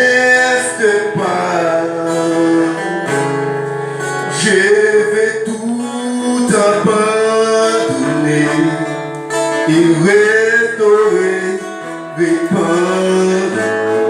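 A man singing with guitar accompaniment, the voice gliding and holding long notes over the music.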